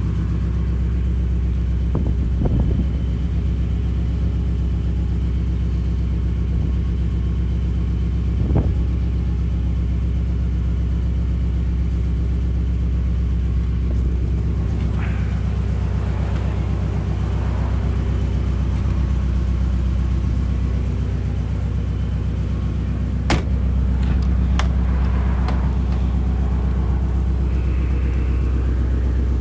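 1963 Ford Fairlane's 221 V8 idling steadily, a low even rumble. A sharp click sounds about two-thirds of the way through, with a few fainter knocks around it.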